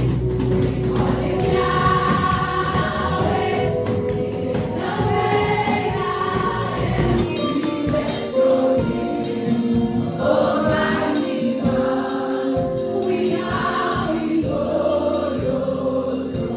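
Gospel music with a choir singing over instrumental backing; the deep bass drops away about seven seconds in.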